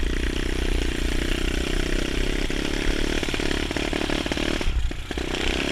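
Honda SR125 pit bike engine running as the bike is ridden. Its pitch eases down, then holds steady, and it drops off briefly near the end before picking up again.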